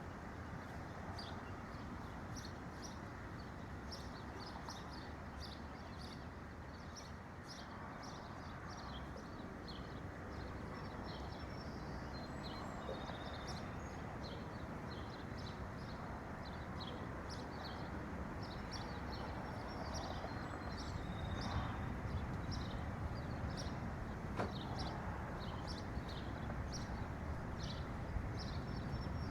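Several small birds chirping in quick, short, high calls throughout, over a steady low background noise.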